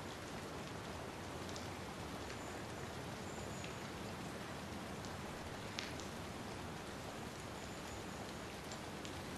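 Steady rain falling, with a few sharper taps of single drops; the loudest tap comes a little before six seconds in.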